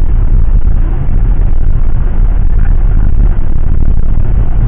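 Loud, steady low rumble of a jet airliner, heard from inside the cabin.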